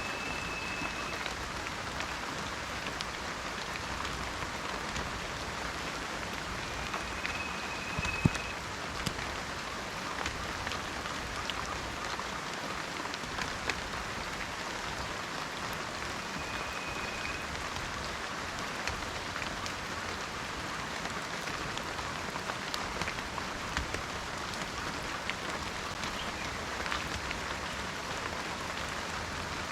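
Steady rain falling in a forest: an even patter with many separate drops ticking. A thin high whistle, about a second long, sounds three times, roughly eight seconds apart.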